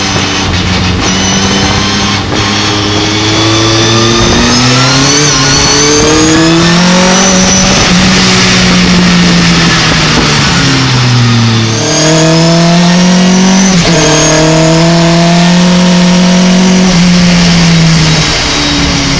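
Race pickup truck's engine under hard driving on a circuit: revs rise under acceleration, fall away, then jump back up about twelve seconds in and hold before dropping again near the end.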